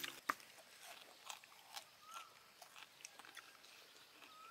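Faint crunching and chewing of crisp deep-fried scorpions: irregular sharp crunches, the strongest just after the start, with a few faint short chirps between them.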